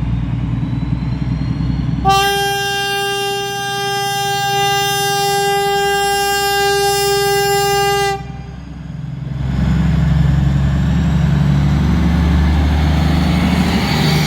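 Train horn sounding one long, steady note for about six seconds, over the rumble of a train. After the horn stops, a train's rumble builds up again as it rolls through.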